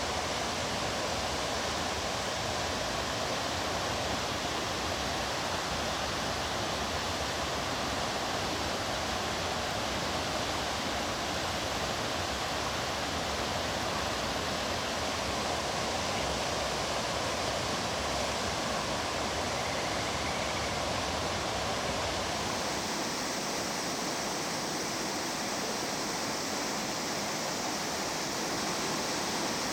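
Mountain stream water rushing and burbling steadily. About three quarters of the way in the sound changes to a thinner, brighter rush with less low rumble, as from another stretch of flowing water.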